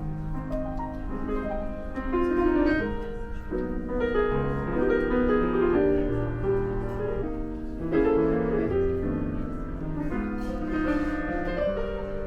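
Piano playing a flowing run of chords and melody.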